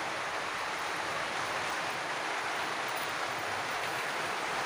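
Steady rain, an even rushing hiss that holds unbroken throughout.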